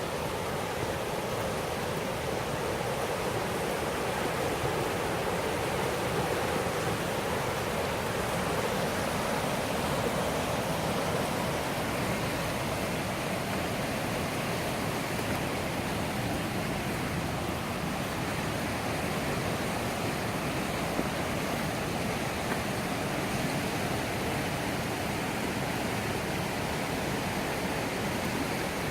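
Steady rush of the Millstone River's flowing water, an even noise with no breaks.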